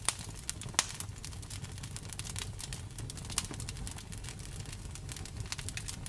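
Wood fire in a fireplace crackling: irregular sharp snaps and pops over a low steady rumble, with two louder snaps within the first second.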